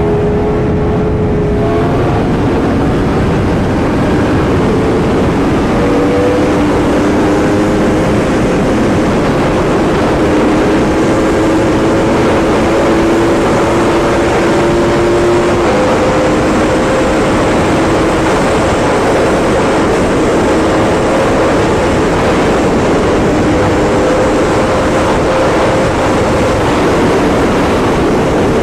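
Yamaha R1M's crossplane inline-four running through an aftermarket titanium exhaust under way. The engine note climbs slowly and steps in pitch several times at gear changes, over a loud rush of wind.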